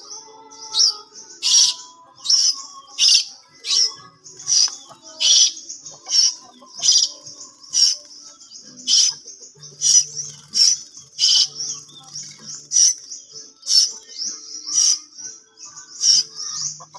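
Asian glossy starling giving short, shrill call notes over and over, about one and a half a second, with softer chattering between them.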